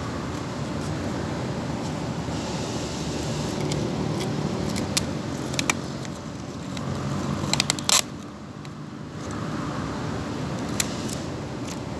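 Steady background traffic hum with scattered sharp clicks and a brief rustle, from handling rubber pipe insulation and tape.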